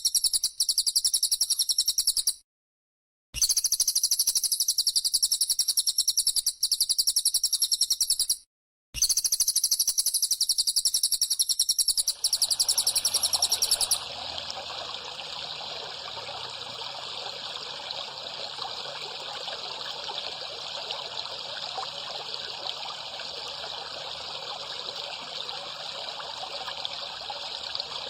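Masteran recording of high, rapidly pulsing calls in the mix of bren cicada, bar-winged prinia (ciblek) and cililin songs, broken twice by short silences. About halfway in, the calls stop and water trickles steadily and more quietly.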